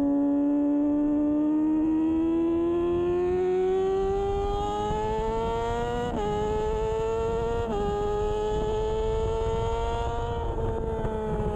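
Kawasaki Ninja 636's inline-four engine at racing speed, revs climbing steadily for about six seconds, then two quick upshifts about a second and a half apart, after which it holds high revs and eases off slightly near the end.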